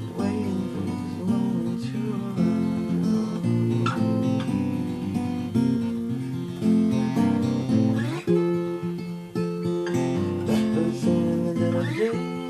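Acoustic guitar fingerpicked, a steady run of plucked notes, with a note sliding up about eight seconds in and again near the end.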